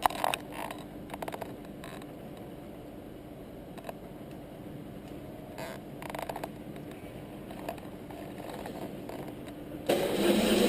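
A few clicks and handling noises over a faint steady hum, then near the end the BMW R1150RT's boxer twin engine fires and keeps running, started without touching the throttle, and it sounds all right.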